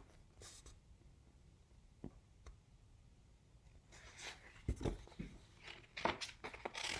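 Faint rustling and a few soft knocks from about four seconds in, as the paper pages of a picture book are handled and turned.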